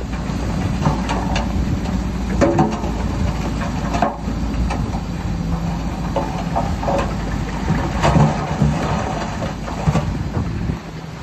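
Heavy diesel earthmoving machine running, its low engine sound steady, with irregular clattering knocks on top. The engine sound drops away near the end.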